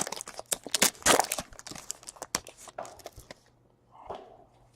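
Trading cards and pack wrappers being handled: a quick run of crinkling and card flicks that stops about three and a half seconds in.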